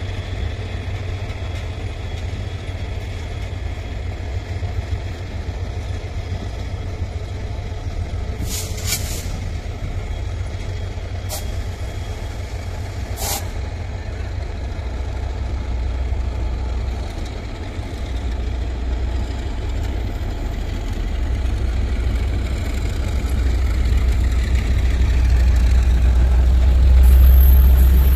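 Deep, steady rumble of diesel trains in a railway station, growing louder over the last several seconds as the train gets under way. Three brief, sharp hissing noises stand out in the middle.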